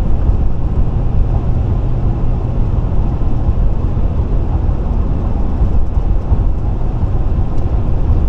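Steady road and tyre noise inside a moving vehicle at highway speed, a deep rumble with an even hiss above it.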